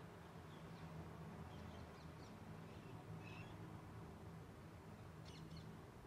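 Faint, short, high chirps of small birds, scattered through, with a quick cluster of them about five seconds in, over a low steady hum.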